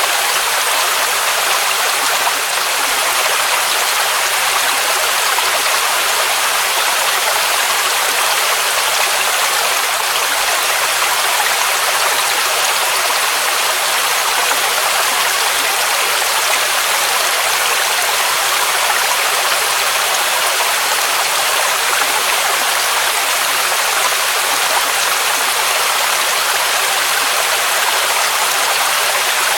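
Waterfall rushing: a steady, even hiss of falling water with little low rumble and no changes.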